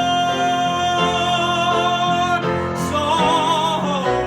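A man singing a musical-theatre ballad with piano accompaniment. He holds a long high note, then sings 'more' with wide vibrato near the end.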